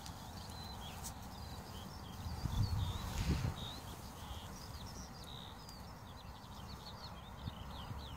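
Small birds chirping: many short, high, downward-sliding calls in an irregular scatter. A low rumble comes and goes about two to three and a half seconds in.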